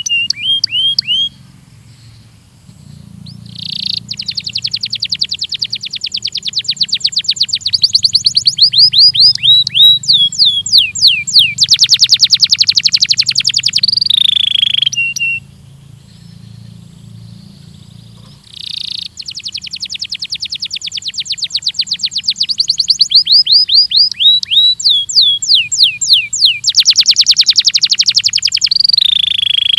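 A domestic canary of the Belgian type singing two long song phrases of fast trills and quickly repeated, downward-sweeping high notes, with a short pause between them. A faint low hum runs underneath.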